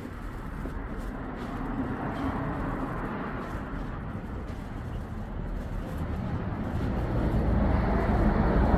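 Road traffic passing, with steady tyre and engine noise. Over the last couple of seconds a vehicle draws closer and its low engine rumble grows louder.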